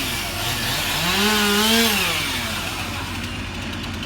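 Two-stroke chainsaw revved up about a second in, held briefly at high speed, then let back down to idle.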